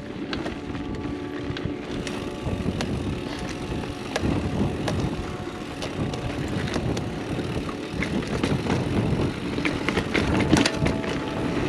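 29er mountain bike riding down rough singletrack: tyres rolling over dirt and rock, with frequent clicks and knocks as the bike clatters over bumps.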